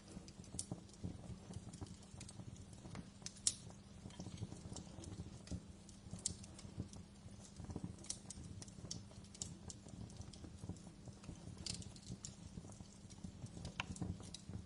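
Wood fire burning in a fireplace, crackling with irregular pops and snaps over a low steady rumble; one sharp pop about three and a half seconds in stands out.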